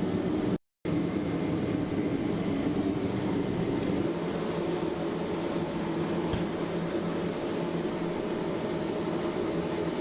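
Steady mechanical hum, strongest in the low-middle range, with a brief total dropout just under a second in.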